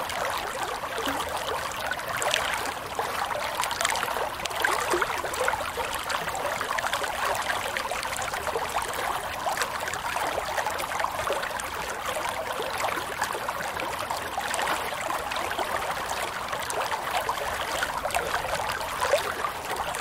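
A small flow of running water, trickling steadily.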